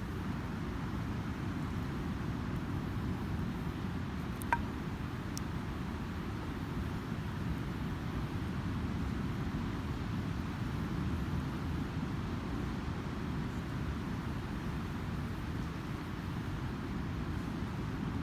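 Steady low rumble of ocean surf breaking on a sandy beach, with a single sharp crackle from a wood campfire about four and a half seconds in.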